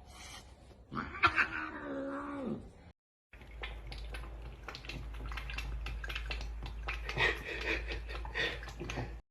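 A cat's drawn-out, wavering yowl about a second in, dropping in pitch at the end. After a brief cut, a steady low hum with scattered faint clicks and rustles follows.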